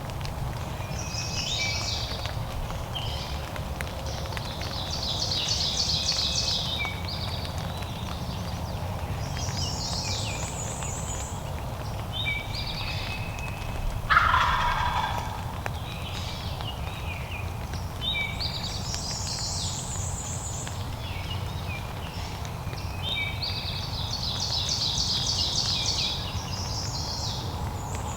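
A wild turkey gobbler gobbles once about halfway through, a loud, rapid rattling call that falls in pitch. Songbirds sing repeated high trilling phrases throughout.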